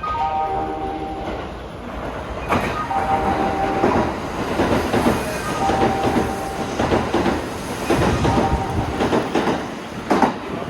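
An electric train passing through the station without stopping, its wheels clattering over the rail joints in a run of repeated knocks.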